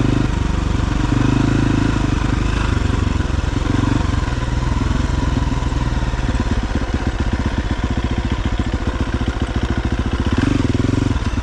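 KTM XC-F 350's single-cylinder four-stroke engine running while the dirt bike is ridden, the revs rising under throttle near the start and again near the end, with a lower, evenly pulsing stretch in the middle.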